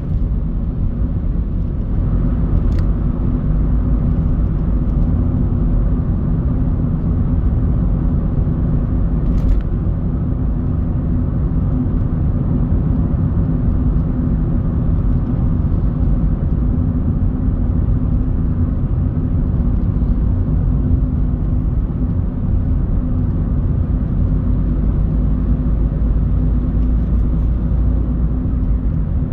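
Car driving steadily, with a constant low rumble of engine and road noise. Two faint brief clicks come about three and nine seconds in.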